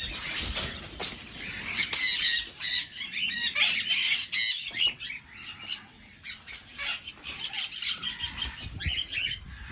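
A flock of cockatiels calling in an aviary, with many short, overlapping chirps and squawks.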